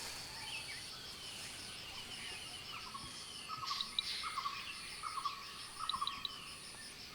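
Tropical forest ambience: insects keep up a steady high trill with a regularly pulsing high note, while birds give short repeated calls and chirps in the middle.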